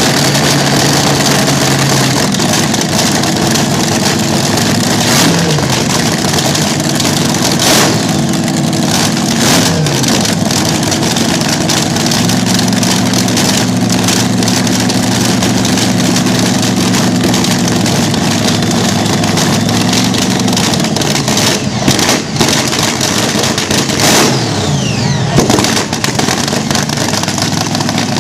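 Vintage slingshot dragster engine, very loud, idling with a steady lope and revved up and back down several times, with sharper cracks of blips near the end.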